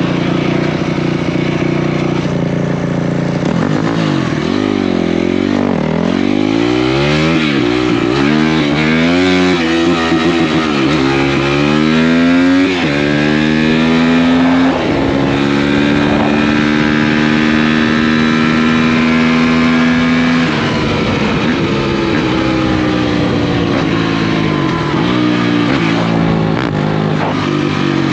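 Off-road racing engines of a Honda 250X and a Kawasaki 450R revving hard, pitch climbing and dropping again and again with throttle and gear changes. The engines are held steady at high revs for several seconds, then ease off about 20 seconds in.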